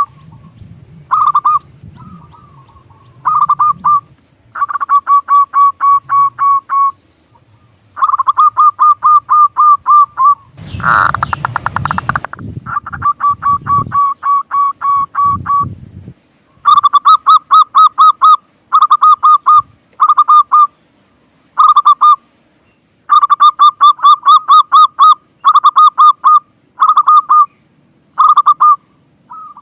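Zebra dove (perkutut) cooing in repeated runs of rapid pulsed notes, some runs short and some lasting a couple of seconds. A loud burst of noise lasting about two seconds comes about eleven seconds in.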